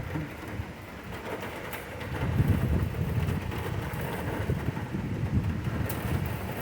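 Thunder rolling in a low, drawn-out rumble that swells about two seconds in, over a faint hiss of rain.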